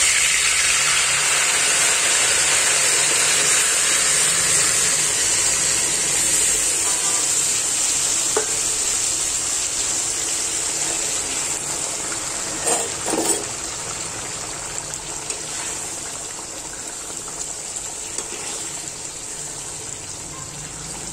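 Yogurt-and-tomato-marinated chicken sizzling in hot oil in a pan: loud at first, then slowly dying down. There are a couple of short knocks a little past the middle.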